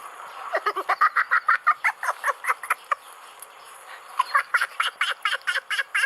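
Sound effect of a bird's call: two runs of rapid rattling notes, about six a second. The first starts about half a second in and the second starts about four seconds in, each lasting about two and a half seconds.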